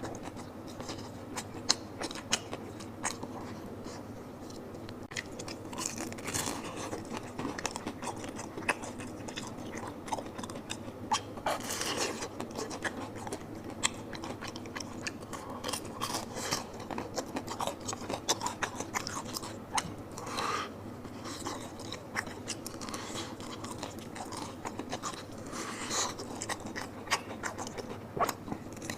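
A person eating close to the microphone: wet chewing with irregular crisp crunches and sharp little clicks of biting.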